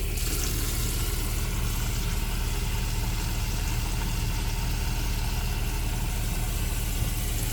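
Gas tankless water heater running with its burner lit, a steady even hum as it heats the flowing water.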